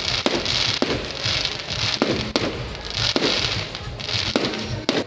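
Aerial fireworks going off: a string of sharp bangs every half second to second, with loud crackling showers in between.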